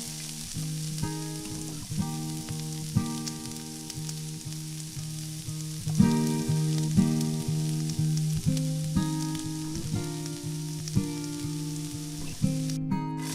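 Oil sizzling steadily as battered onion pakoras fry in a miniature pan, over plucked acoustic guitar background music. The sizzle drops out for a moment near the end.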